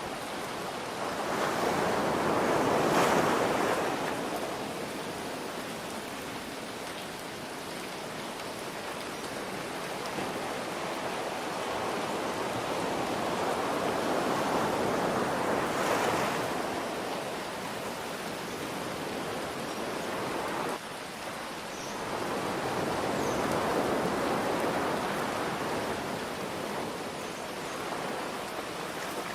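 Ocean waves surging in and washing out three times, each swell slowly rising and falling, over a steady hiss of rain.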